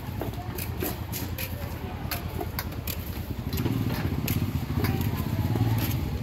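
A motor vehicle's engine running nearby, a low rumble that grows louder about three and a half seconds in, with scattered clicks over it.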